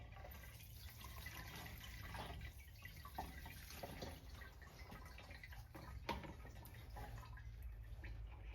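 Faint trickle and drip of old gasoline being poured out of a chainsaw's fuel tank into a can.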